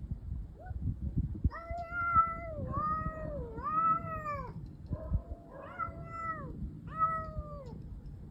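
Domestic cat yowling in about five long, wavering calls that rise and fall in pitch, the drawn-out threat yowl of a cat in a standoff with another cat.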